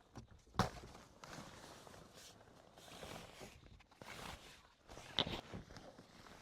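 Footsteps and handling noises, with two sharp knocks, about half a second in and about five seconds in.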